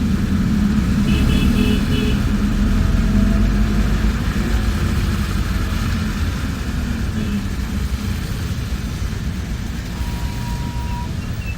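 Bus engine and road noise heard from inside a moving bus: a steady low rumble. Four quick high beeps sound about a second in, and a single beep of about a second near the end.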